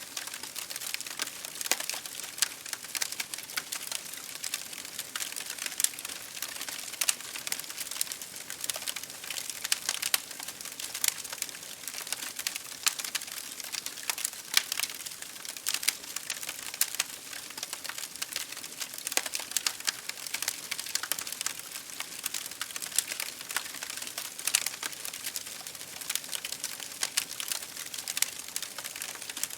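Wood fire crackling in a fireplace, with a steady stream of irregular pops and snaps, over rain pattering on window glass.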